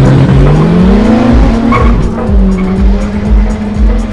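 Drag-racing car's engine revving, rising in pitch over about a second and then holding, with tyres squealing, over music with a heavy, steady beat.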